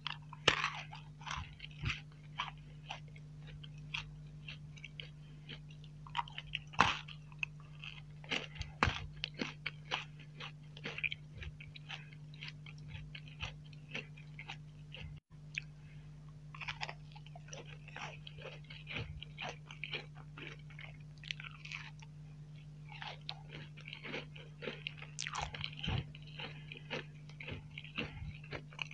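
Close-miked eating of crunchy sweets: steady crunching and chewing with sharp bites now and then, the loudest near the start and about seven seconds in. A steady low hum runs underneath.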